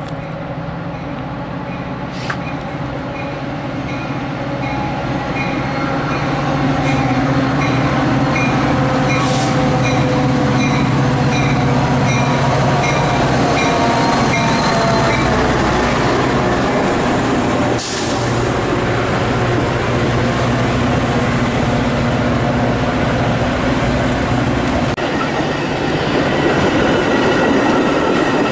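A Metra commuter train passes close by. The diesel locomotive runs under power as it approaches, growing louder from about six seconds in and going past. Near the end, the bilevel passenger cars follow with rolling wheel noise.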